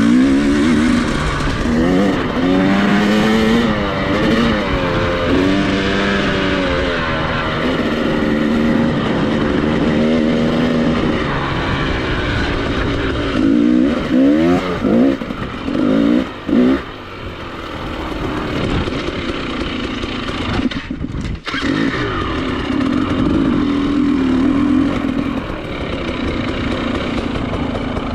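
Dirt bike engine revving hard on a motocross track, its pitch rising and falling as the throttle is opened and closed. About halfway through come several quick throttle blips, and a short cut in power follows a few seconds later.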